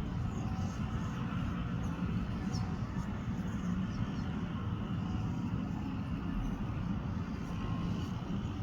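A steady low outdoor rumble, with faint high sparrow chirps scattered through the first half.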